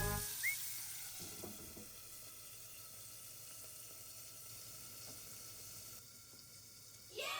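Food sizzling as it fries in a pan, a steady hiss that slowly dies down and drops away near the end. Right at the end an animal's short falling cry begins.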